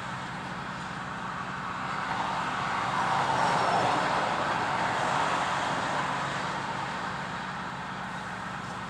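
Road traffic passing: a vehicle's noise swells over a few seconds and fades away, over a steady low hum.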